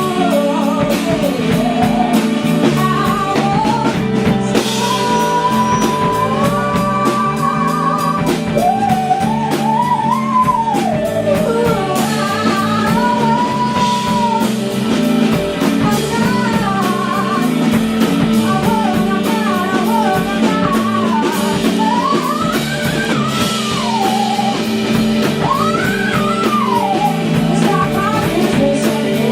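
A rock band playing live: guitar and drum kit under a woman's singing voice, the melody wavering and gliding.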